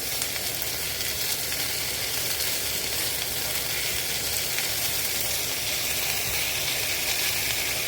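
Chicken pieces, sliced mushrooms and onion sizzling in hot olive oil in a pan, a steady frying hiss.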